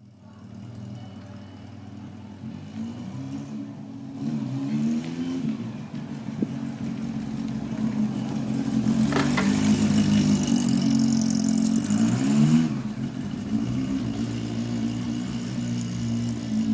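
Honda CB400SF's inline-four engine running, its pitch rising and falling a few times. A harsh high-pitched noise joins it for about four seconds in the middle and is the loudest part.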